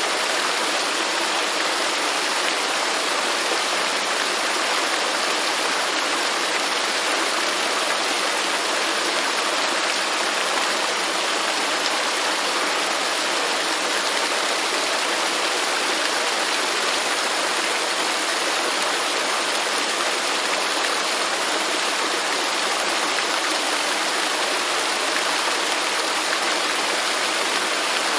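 Waterfall in a rainforest: water falling and rushing in a steady, unbroken hiss.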